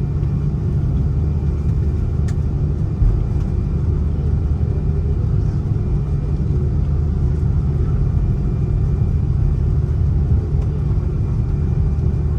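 Steady low rumble inside the cabin of an Airbus A330-300 airliner, from its engines and the air around it, with a brief thump about three seconds in.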